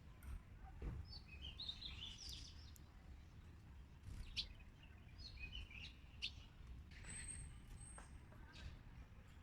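Small birds chirping faintly in short high twitters, with a few sharp taps between the calls.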